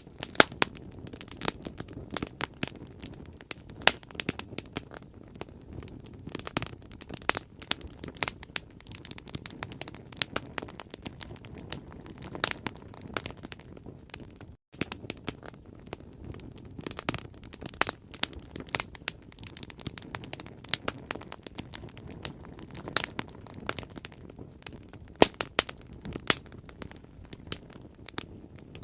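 Bonfire crackling: wood snapping and popping in dense, irregular sharp cracks over a low steady rush of flame, with a momentary dropout about halfway through.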